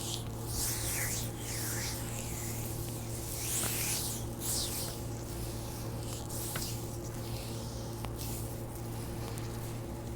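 Hands massaging a bare foot: palms and fingers sliding and kneading over the skin in repeated soft swishing strokes, with a few faint clicks. A steady low hum runs underneath.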